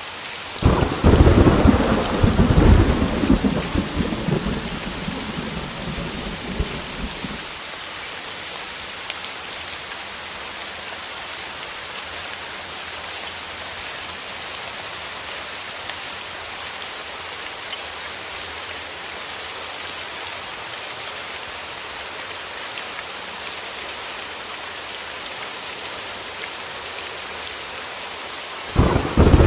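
Heavy rain pattering steadily against a window, with a loud clap of thunder about a second in that rumbles and fades over several seconds, and another thunderclap breaking just before the end.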